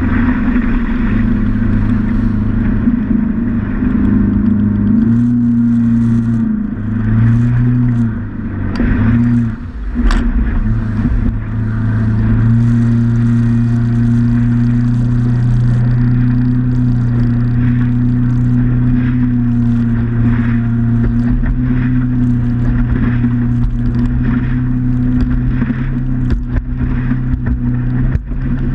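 Motorboat engine running under way, with rushing water and wind noise. Its pitch steps up and down a few times, with brief dips in level, in the first ten seconds or so, then holds steady.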